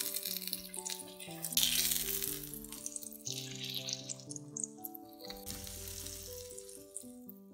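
Syrniki frying in vegetable oil in a frying pan, the oil sizzling strongly at first and dying down over the last few seconds. Background music plays a stepping melody over it.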